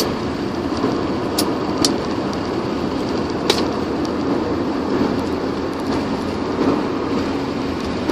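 Steady road and engine noise of a moving car, heard from inside the cabin, with a few light ticks in the first half.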